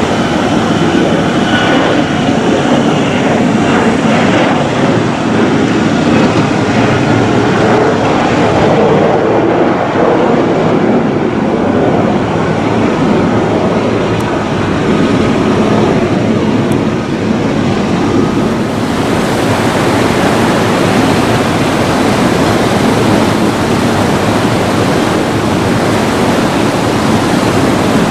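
Jet airliner engines running loud and steady, a dense rumble with a faint whine early on, from Airbus narrowbodies on the runway. About two-thirds of the way through the sound changes to a brighter hiss as a second airliner's engine noise takes over.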